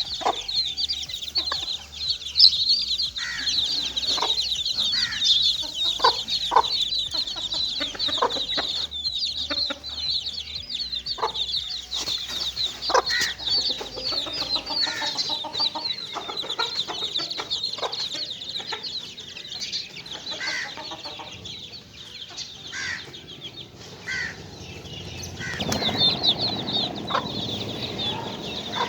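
Young chicks peeping continuously in a dense stream of high chirps, with occasional lower short calls among them and a rustling noise rising near the end.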